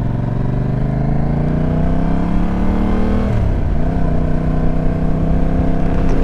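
Motorcycle engine pulling under way, its pitch climbing slowly, then dropping sharply about three seconds in at a gear change before running steady.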